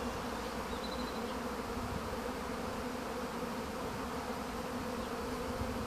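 A honeybee swarm leaving the hive: thousands of bees in the air making a steady, dense buzz with no break.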